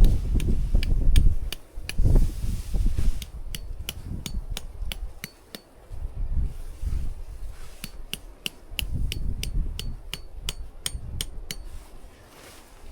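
Repeated sharp strikes like hammering, about three to four a second, with a short metallic ring on each. They come in runs with a pause near the middle, over a low rumble.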